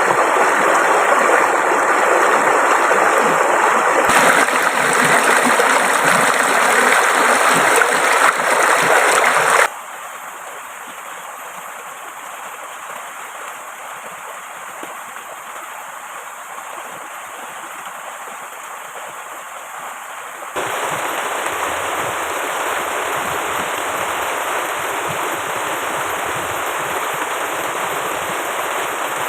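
Steady rush of flowing river water. Its level drops suddenly about ten seconds in and comes back up about twenty seconds in, as if at cuts.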